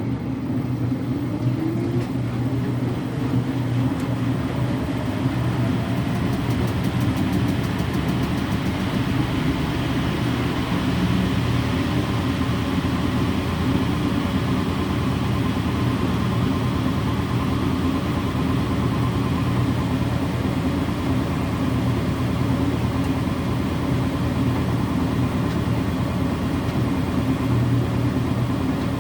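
Electrolux Wascator W355H washer-extractor in its intermediate spin between rinses, run at low speed: the drum motor's whine rises in pitch over the first few seconds as the drum speeds up, then holds in a steady hum.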